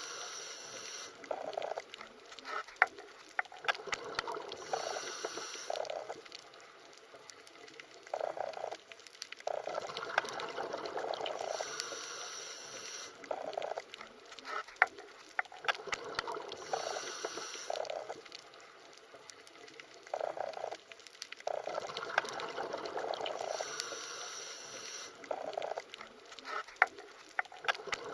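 Underwater ambience of bubbling and gurgling water with scattered sharp clicks, swelling and fading every few seconds in a pattern that repeats about every twelve seconds.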